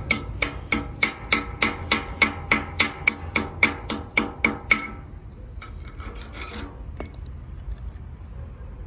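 A hammer striking steel in a quick, even rhythm, about three or four blows a second, each with a short metallic ring. The blows stop about five seconds in, and a few fainter, scattered knocks follow.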